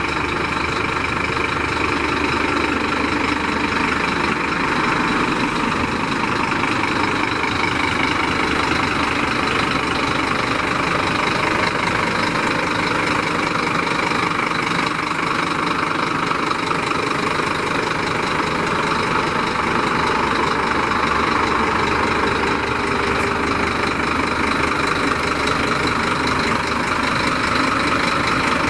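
Scania P310 tipper truck's nine-litre five-cylinder diesel engine idling steadily.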